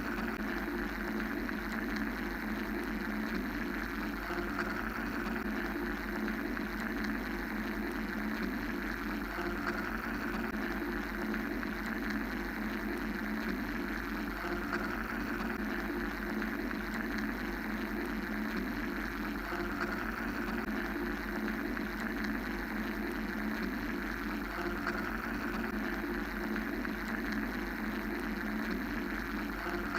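Steady mechanical white-noise drone: a constant low rumble and hum under a hiss that slowly swells and fades every few seconds.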